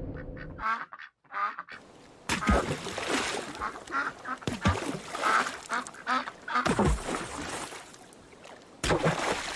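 Birds calling, many short repeated calls one after another, with a few dull low thuds among them.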